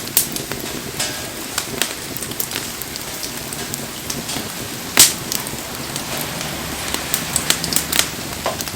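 Wood bonfire burning in the rain: a steady hiss of rain with sharp crackles and pops from the fire, one loud pop about five seconds in.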